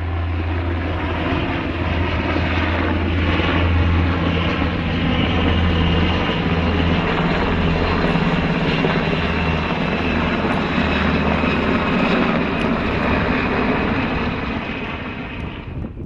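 Sikorsky HH-60G Pave Hawk helicopter running, a steady, loud blend of turbine and rotor noise over a strong low hum.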